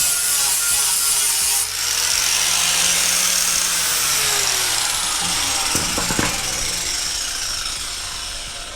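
Power sander running against a panel, a steady rasping hiss, sanding the area down to a rough surface for body filler. Its pitch slides lower and the sound fades near the end.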